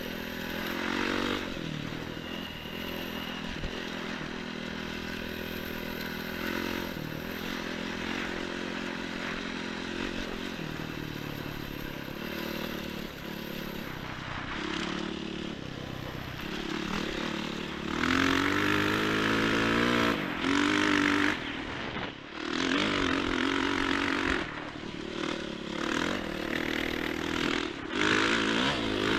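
Enduro motorcycle engine running as the bike is ridden, the revs rising and falling with throttle, louder climbs in revs a little past halfway and again near the end.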